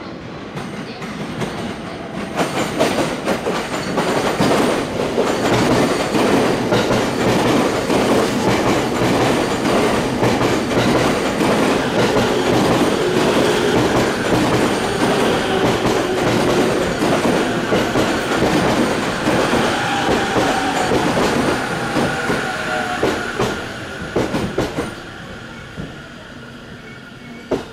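Electric commuter train pulling into the platform: wheels clattering over the rail joints, building to a steady loud run, then a falling whine and a thin high tone as it slows, the noise dying away near the end.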